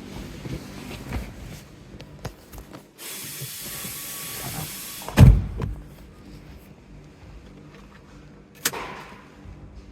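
Sounds of someone getting into a Ferrari F430. A hiss lasts about two seconds, then a heavy car-door thump about five seconds in, then a single sharp click near the end.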